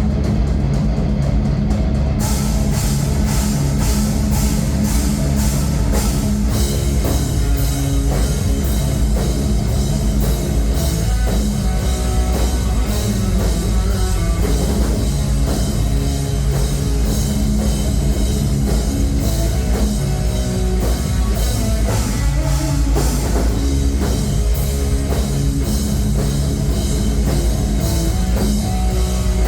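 A live rock band playing heavy rock with guitars, bass and a drum kit. The drums come in about two seconds in, after a few seconds of guitar alone.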